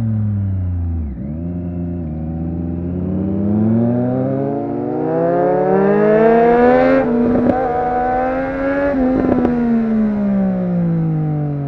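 Triumph Street Triple RS inline-three engine through a Yoshimura exhaust. The revs drop early on, then climb steadily under throttle with a gear change about seven seconds in. Around nine seconds in the throttle closes, with a few crackles, and the revs fall away.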